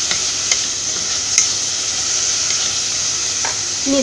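Sliced onions and cashews sizzling steadily as they fry in an aluminium pressure cooker, with a few light clicks from a wooden spatula stirring them.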